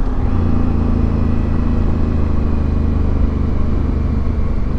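Motorcycle engine running at a steady cruise, with wind and road noise.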